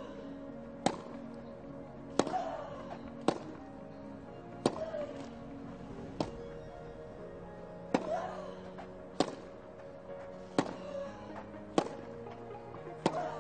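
Tennis rally: rackets striking the ball back and forth about ten times, a sharp crack every second and a half or so, with a player's grunt on several of the shots.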